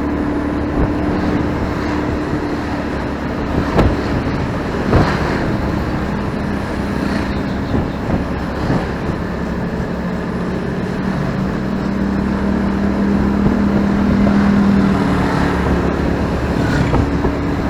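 Motorcycle engine running steadily under way on a city road, with heavy road and wind noise and passing traffic. Its hum rises slightly and then eases off near the end, and there are a couple of sharp knocks about four and five seconds in.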